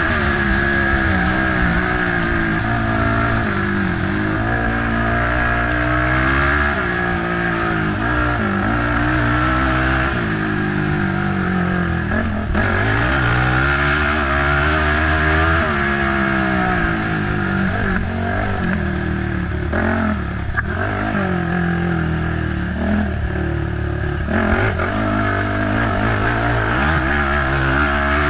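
Racing ATV engine revving up and down under hard on-and-off throttle, its pitch rising and falling every second or two, with a few knocks and rattles from the machine.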